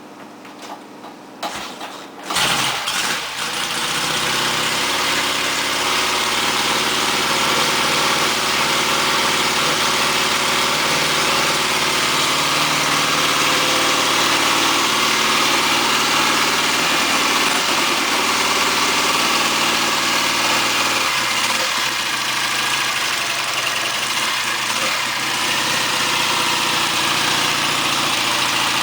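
1959 Matchless G15/45 750 cc parallel-twin motorcycle engine being cold-started on choke: a few short knocks, then it catches about two seconds in and settles into a steady idle through a two-pipe stainless exhaust.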